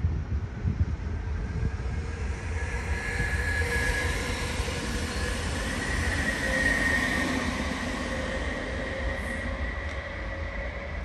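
Train running on the track through a station: a steady low rumble with a thin high squeal from the wheels or brakes that holds its pitch through the middle.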